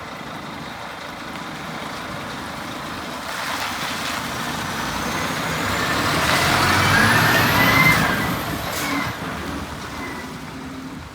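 Scania P320 truck running, growing louder to a peak about seven to eight seconds in and then easing off, with a thin high whistle rising in pitch as it swells.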